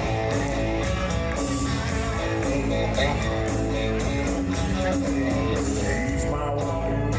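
Live country-rock band playing: electric guitar over bass and a drum kit keeping a steady beat.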